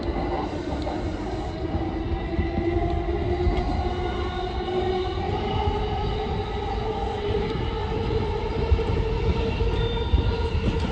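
Yamanote Line electric train running, heard from the driver's cab: a steady rumble of wheels on rail with a motor whine that rises slowly in pitch as the train gathers speed, and a couple of short knocks near the end.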